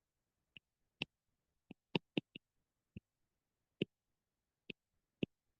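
About ten light, sharp clicks at irregular intervals over five seconds, with dead silence between them.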